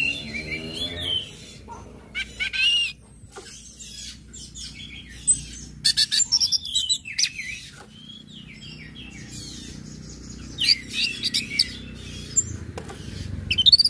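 Orange-headed thrush singing in separate bursts a few seconds apart: quick runs of sharp chips and warbled whistled notes that rise and fall.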